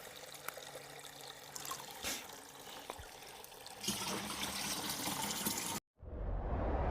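Forest spring water trickling steadily with a few small clicks, louder after about four seconds. Near the end it cuts off and a rising whoosh starts.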